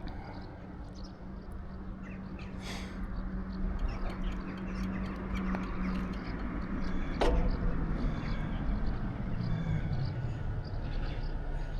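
Riding ambience from a bicycle: steady tyre and wind rumble with a low steady hum that drops in pitch near the end. A brief harsh call, like a crow's caw, comes about three seconds in, and a sharp click comes about seven seconds in.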